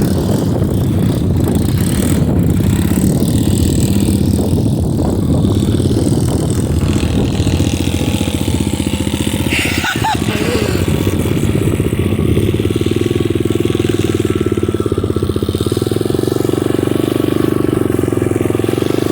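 SSR pit bike's small single-cylinder four-stroke engine running unevenly, settling into a steadier idle about two-thirds of the way through, with one sharp click about halfway.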